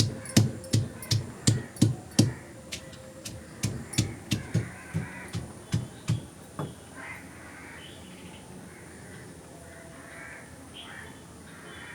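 A quick, even series of sharp knocks, about three a second, like steady chopping, that stops about two-thirds of the way through. Crows caw repeatedly throughout.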